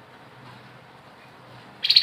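A short pause in a grey-headed babbler's rapid trilling song, with only faint background hiss, then the high, fast pulsed trill of about fifteen notes a second starts again near the end.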